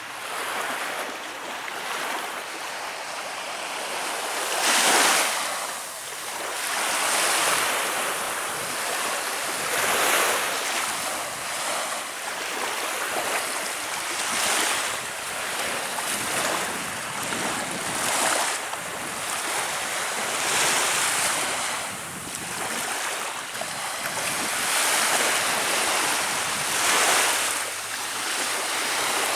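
Small Baltic Sea waves breaking and washing onto the shore, a surge of surf every two to three seconds over a steady hiss of water.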